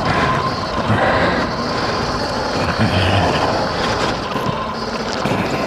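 X Pro dirt bike ridden along a rough off-road trail: a continuous rushing ride noise with a steady whine held on one pitch throughout.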